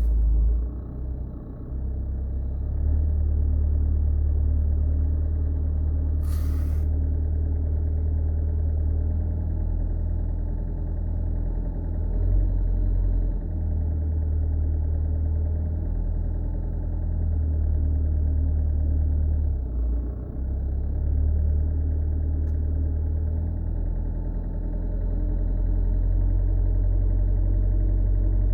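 Ford Mondeo Mk4 running with a steady low drone that swells and dips every few seconds, and one brief hiss about six seconds in. This is the unexplained noise the owner is asking about.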